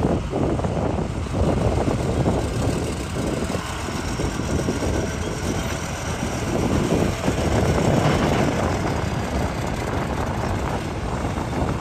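Hitachi excavator's diesel engine running under load, a steady heavy rumble that swells a little about eight seconds in.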